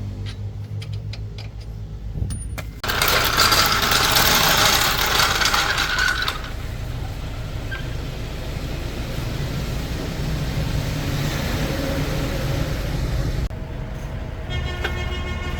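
Heavy truck engine running with a steady low hum. About three seconds in, a loud rushing noise cuts in for about three seconds, then settles into a steadier running noise.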